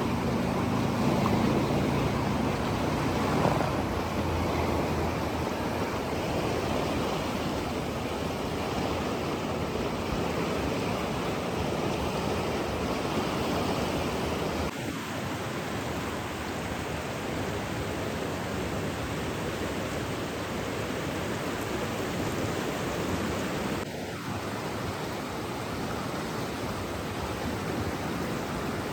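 Steady rushing water, a dense even hiss, with a low hum under it that fades out in the first few seconds. The level drops slightly twice, about halfway through and again later on.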